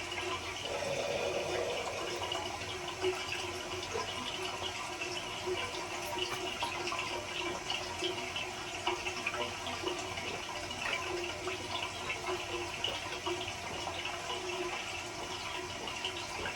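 Steady rush of running water, like a bathroom tap, with faint swallowing as a bottled aloe vera drink is chugged.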